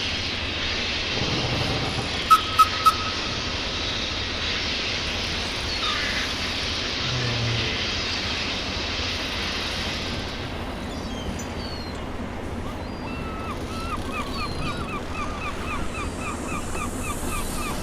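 Steady running noise of a train, with three sharp knocks in quick succession about two seconds in. From about two-thirds of the way through, a small bird calls in a quick, even series of short chirps.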